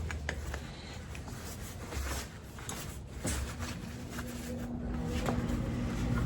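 Light clicks and knocks of tools and metal fork parts being handled on a bench, with a low steady hum coming in about halfway through.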